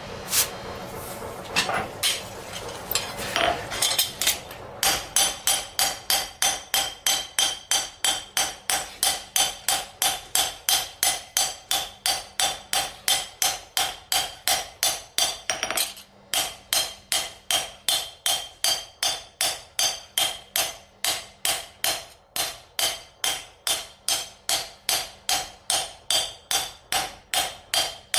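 Hammer blows on steel being forged. A few scattered strikes come first, then a steady, even rhythm of ringing blows at about two or three a second, with a short pause around halfway.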